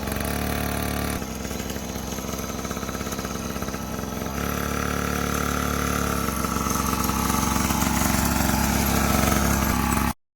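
Dirt bike engine running steadily, its note shifting a couple of times and growing slightly louder toward the end, then cutting off suddenly.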